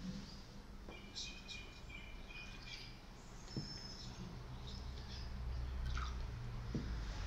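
Faint birdsong of short high chirps and trills, over a low hum that grows louder in the second half, with a couple of soft knocks.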